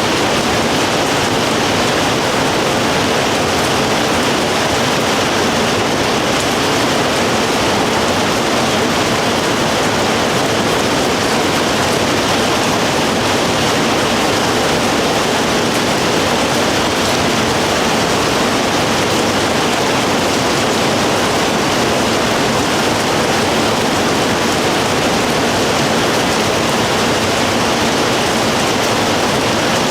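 Steady, loud downpour of rain, an even hiss with no breaks.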